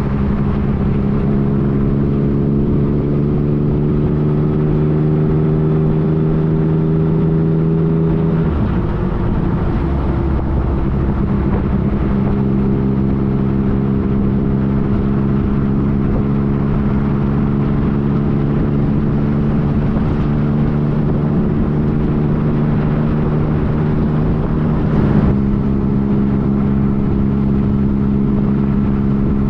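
A 2015 Yamaha FJ-09's inline three-cylinder engine running steadily under way, its note rising slowly. The note breaks and settles at a new pitch about eight seconds in, and shifts again about twenty-five seconds in.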